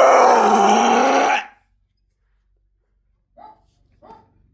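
A dog giving one loud, drawn-out vocal call lasting about a second and a half, its pitch wavering, followed a couple of seconds later by three short, quieter yips.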